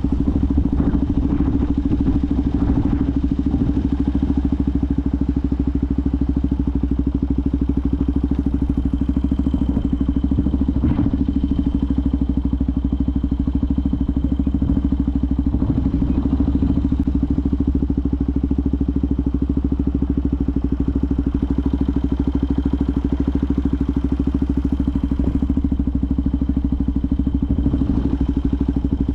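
Benelli TNT 125's single-cylinder four-stroke engine running steadily at an even pitch, with no revving. A single light knock about eleven seconds in.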